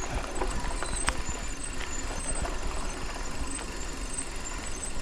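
Mountain bike rolling over a rough trail: a steady low rumble from the tyres, with scattered clicks and rattles from the bike.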